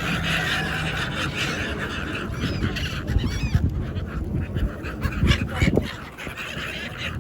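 Birds squawking: a few short, arched calls near the middle, over a steady background hiss with scattered clicks.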